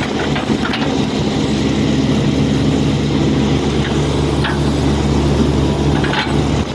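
Hitachi hydraulic excavator's diesel engine running steadily, with a few short faint high squeaks over it.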